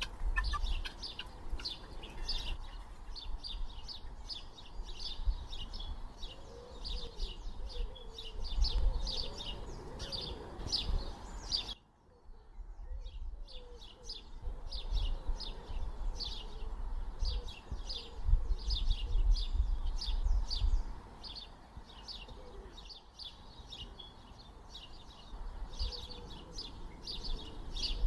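Small birds chirping, a dense run of short high chirps, over a low rumble. The sound drops out briefly about twelve seconds in, then resumes.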